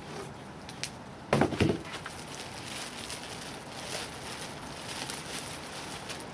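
Packaging rustling and crackling as items are handled and lifted out of a box of packing peanuts, with a louder thump about a second and a half in.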